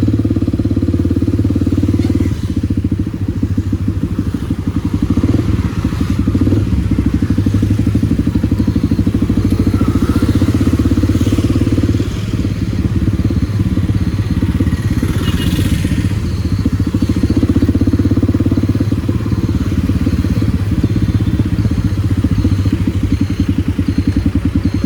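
Kawasaki D-Tracker 250's single-cylinder four-stroke engine running under way through a White Brothers aftermarket exhaust, the note easing off briefly about two seconds in and again about halfway through.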